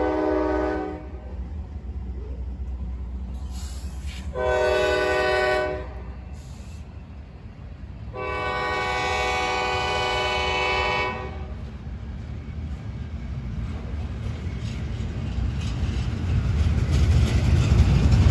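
Diesel freight locomotive's air horn sounding: a long blast that ends about a second in, a short blast, then a long blast of about three seconds. A low rumble runs underneath and builds toward the end as the train draws nearer.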